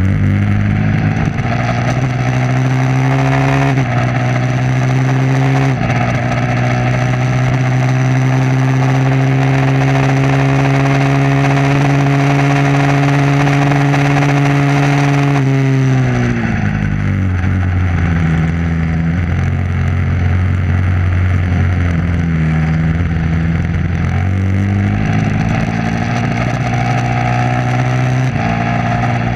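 Motorcycle engine under hard acceleration on a race track: it revs up through two gear changes in the first six seconds, then holds high revs for about ten seconds. Near the middle it drops sharply off the throttle, runs lower and unevenly through a slower section, and revs up again near the end.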